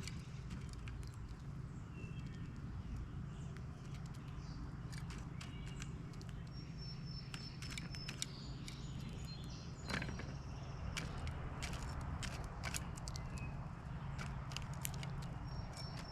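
Birds at a feeder: scattered sharp clicks and taps, with a few short high chirps, over a steady low rumble.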